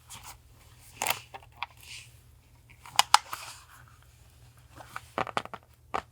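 Paper and stationery being handled on a desk: soft rustles and swishes broken by sharp taps and clicks, two crisp clicks about three seconds in and a quick cluster near the end.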